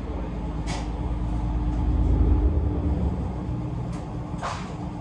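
Inside the cabin of the Setsugekka diesel railcar, its engine hums and the wheels rumble steadily as it runs along the line. The rumble swells about two seconds in and then eases. Two brief clicks come, one near the start and one near the end.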